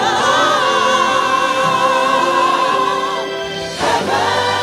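Gospel worship singing: a choir holds long, wavering sung notes over music, breaking off briefly near the end before a new held note begins.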